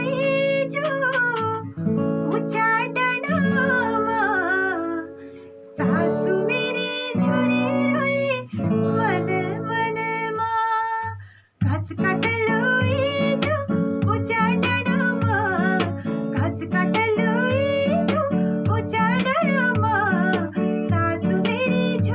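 A woman singing a song to acoustic guitar accompaniment, the guitar playing chords under her gliding melody. The music drops out briefly about halfway through, then resumes.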